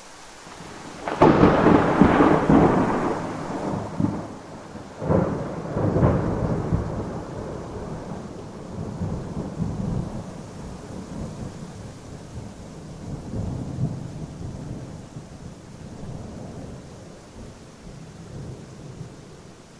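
Thunder: a loud clap about a second in, then rolling rumbles with two more peals around five and six seconds, slowly fading over steady rain.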